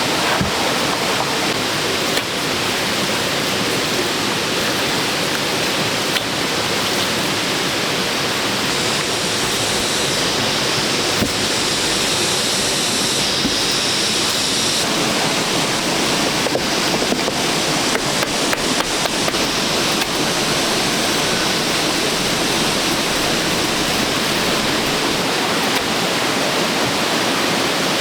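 Steady rushing noise like running water, with a few faint ticks partway through.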